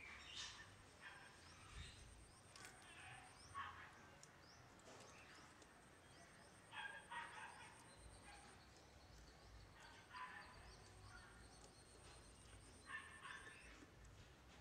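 Faint background bird calls: short bursts of rapid, chattering calling every few seconds, with small high chirps in between, over a faint steady high whine.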